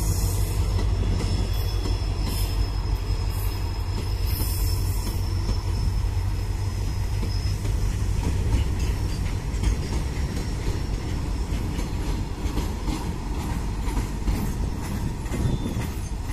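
Rail coaches and wagons of a passing train rolling by close at hand: a steady rumble of steel wheels on rail, with repeated clicks over the rail joints. A thin high wheel squeal runs through the first half.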